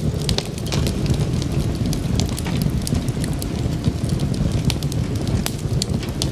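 Wood fire burning in a fireplace: a steady low rumble of flames with many sharp, irregular crackles and pops, several a second.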